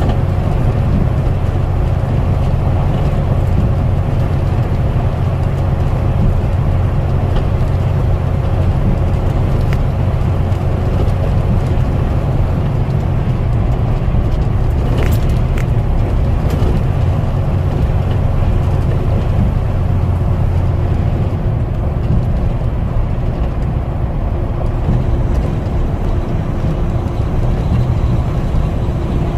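Truck driving along with a steady low engine and road drone, with a couple of light clicks about halfway through.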